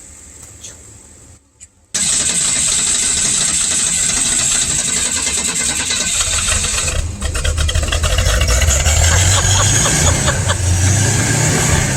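1978 Ford straight-six engine running during a Seafoam intake cleaning. It cuts in abruptly about two seconds in, dips briefly near the middle, then runs louder with a stronger low hum.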